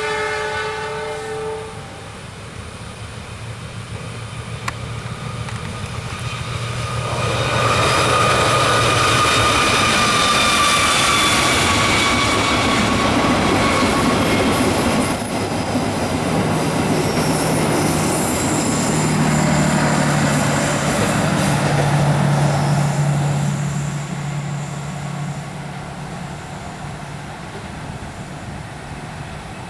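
Passenger train's horn sounds in a short blast, then the train passes over a steel truss bridge: a loud rumble and rattle of wheels on steel with a high ringing tone that slowly falls in pitch, and the locomotive's engine hum under it, fading away near the end.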